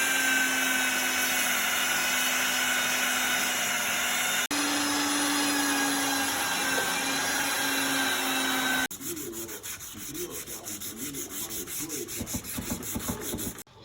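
An electric sander running steadily on the wooden legs of a furniture cabinet, with a constant motor hum. About two thirds of the way through, it gives way to quieter, quick, rhythmic rubbing strokes, as of hand sanding or wiping.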